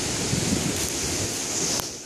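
Steady rushing noise of river water mixed with wind on the microphone. It cuts off abruptly with a click near the end.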